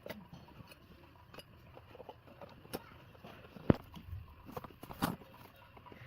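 Scattered light clicks and knocks at irregular intervals, with one sharper knock a little past the middle and another about a second later.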